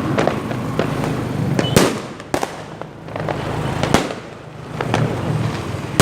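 Fireworks and firecrackers going off: a continuous crackle of small pops under a steady rumble, with four loud sharp bangs at irregular intervals.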